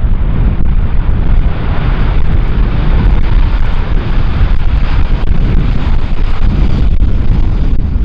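Strong wind buffeting the microphone: a loud, continuous low rumble that surges and dips with the gusts.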